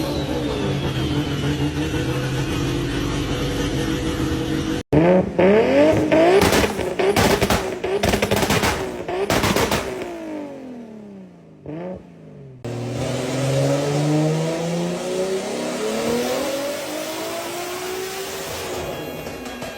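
Heavily tuned turbocharged Toyota Supra Mk4 engine, rated at 1200 horsepower. It first runs at a steady idle. About five seconds in come a run of sharp throttle blips with cracks. In the last part it revs up in a long rising pull that eases off near the end.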